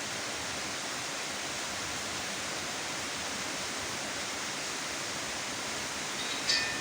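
Rain falling in a steady, even hiss. A brief high chirp sounds near the end.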